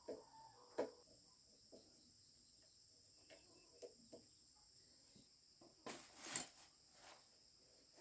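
Faint steady chirring of crickets in two high-pitched bands, with a few soft scattered knocks and a brief rustle about six seconds in.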